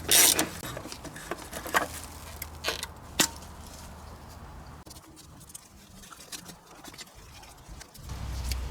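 Light, irregular clicks and scrapes of small car parts being handled, with a brief louder scrape at the start, over a faint low hum that grows louder near the end.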